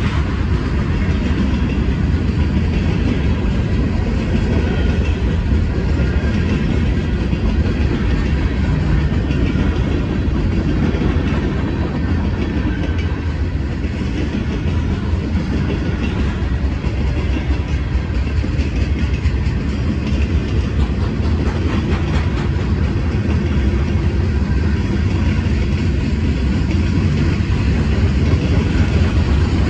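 Freight cars of a mixed freight train rolling past at steady speed: a continuous rumble of steel wheels on the rails, with the clickety-clack of wheels passing over rail joints.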